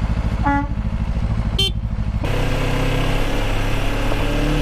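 Motorcycle engine idling with a fast, even low pulse, with two short beeps about half a second and a second and a half in. About two seconds in it switches abruptly to the motorcycle running along with a steady engine note over a hiss.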